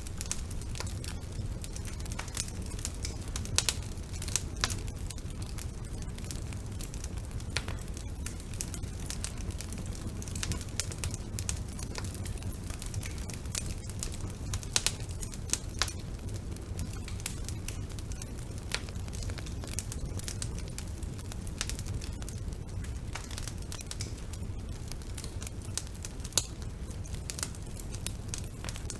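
Wood fire burning in a fireplace: irregular crackling with sharp pops over a steady low rumble, and a handful of louder pops now and then.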